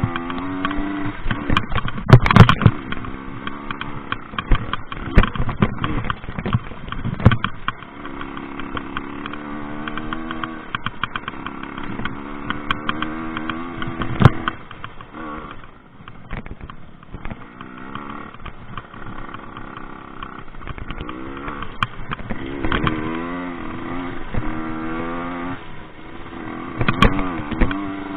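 Rieju MRT 50 two-stroke engine revving up and down over and over as the bike is ridden, its pitch rising and falling. Sharp loud knocks come a couple of seconds in, again at about seven seconds and at about fourteen seconds in.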